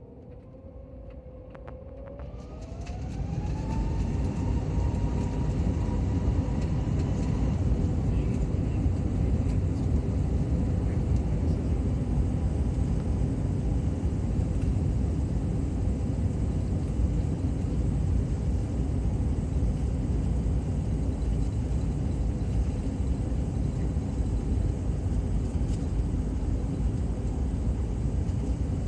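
Jet airliner heard from inside the cabin. The engines' whine rises in pitch over a couple of seconds as they spool up, and the sound grows into a loud, steady rumble of engine and air noise.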